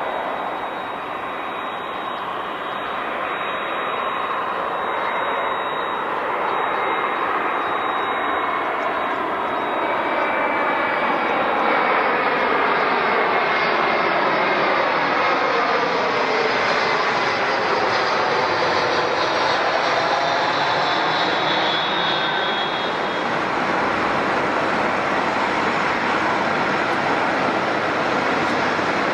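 Jet airliner engines passing close by, growing louder over the first twelve seconds or so and then holding steady, with a sweeping change in pitch as the aircraft goes past.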